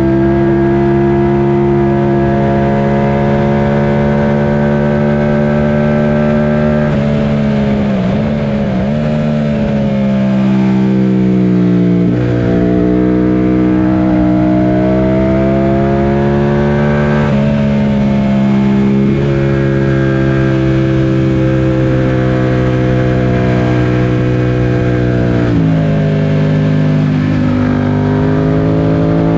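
Yamaha FZ-07's parallel-twin engine running hard at high revs on a racetrack, its pitch stepping up and down several times with gear changes and throttle, with a longer dip and climb about eight seconds in.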